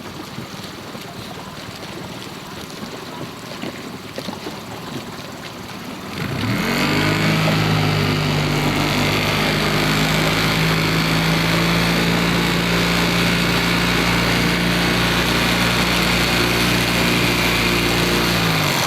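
Motorboat engine revving up about six seconds in, then running steadily at a higher speed, and throttling back at the very end. Before it comes up, water and wind noise.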